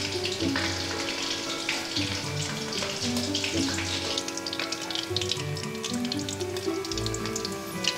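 Battered pieces deep-frying in a wok of hot oil: a steady, crackling sizzle. Background music with a melody and bass plays under it.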